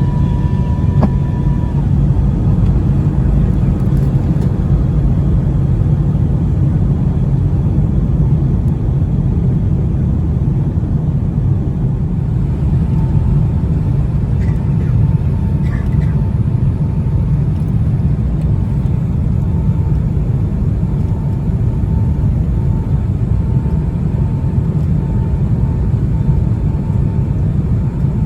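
Steady low rumble of engine and airflow noise inside the economy cabin of a Boeing 757-200. A faint hum comes and goes over it in the second half.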